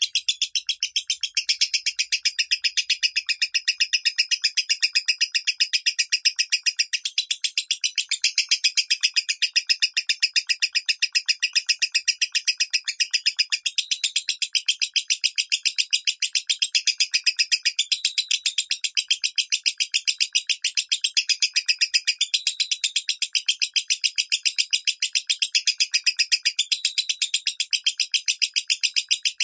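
Lovebird singing in the high, thin 'minor' voice: a long unbroken run of very rapid high-pitched chirps, many to the second, with no pause.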